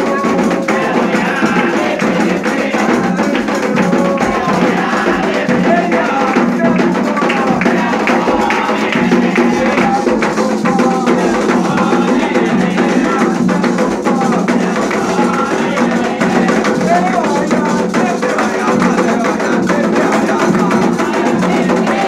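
Candomblé atabaque hand drums beating a continuous rhythm with a bell or wood-block pattern, under wavering sung voices.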